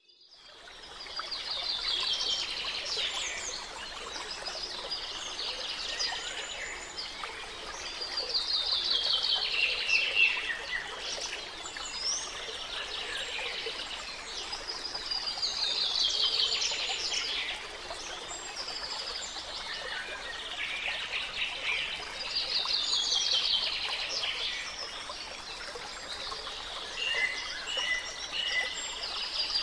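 Birdsong: a bird's fast descending trill repeats about every seven seconds, with scattered chirps between, over a faint steady hiss.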